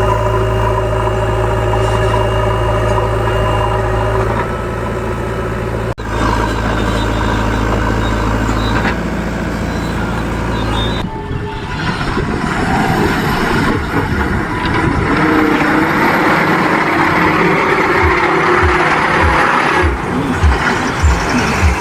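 Heavy diesel engine running steadily, then, about halfway through, louder and rougher with a thin high whine over it. Low knocks come near the end.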